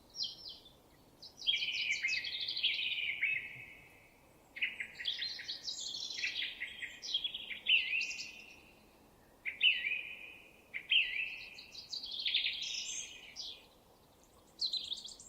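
Songbird singing in repeated phrases of quick chirps and trills, with short pauses between the phrases.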